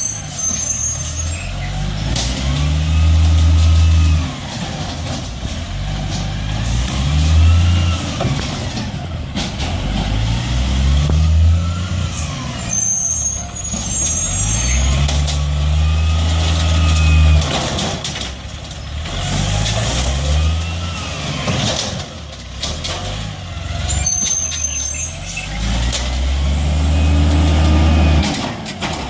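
Garbage truck working, its engine revving up and dropping back again and again with a rising and falling whine, and short air-brake hisses about a third of the way in and again near the end.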